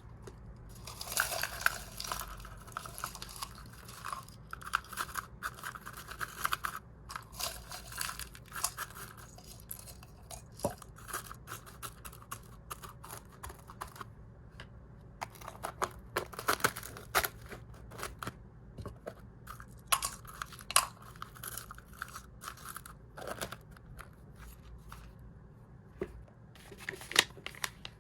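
Plastic food packaging rustling and crinkling as it is opened and handled, with many small clicks and rattles of dry hamster food and plastic canisters.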